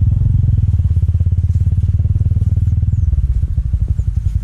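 Motorcycle engine running at low speed with an even, rapid exhaust beat, dropping a little in level about three seconds in.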